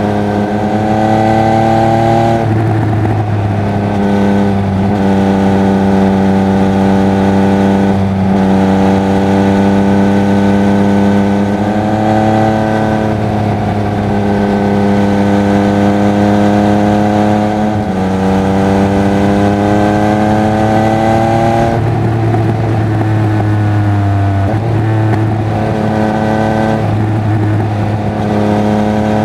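Triumph Speed Triple 1200 RR's three-cylinder engine and exhaust running under way. The pitch climbs gently with throttle and steps abruptly about seven times as the rider changes gear.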